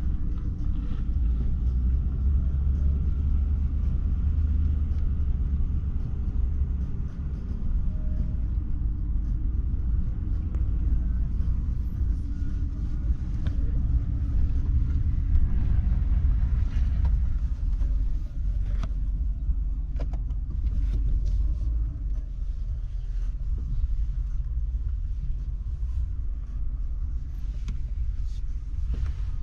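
Steady low rumble of a car on the move: road and engine noise heard from the vehicle, with a few faint clicks.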